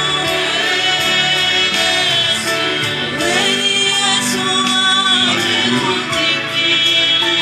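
Gospel worship song: voices singing together over steady instrumental backing.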